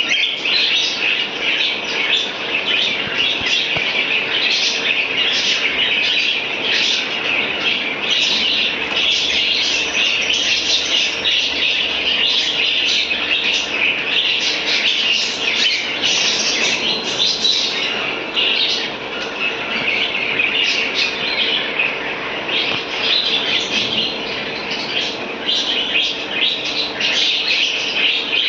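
Dense, continuous chirping and chattering of pet birds, unbroken throughout, over a faint steady hum.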